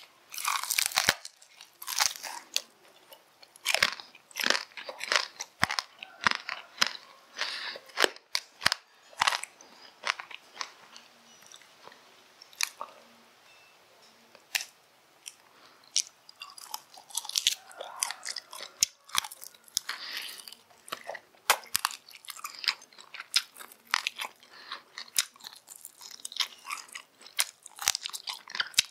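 Close-miked biting and chewing of crispy fried rat meat, with many sharp crunches at irregular intervals and a sparser lull about midway.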